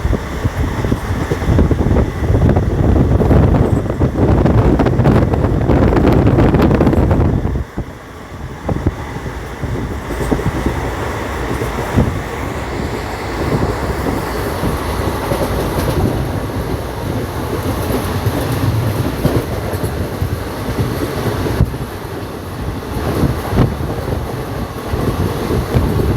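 Steady rumble and rattle of a moving vehicle, with many small knocks running through it. It is loud for the first seven seconds or so, then drops suddenly and carries on steadily at a lower level.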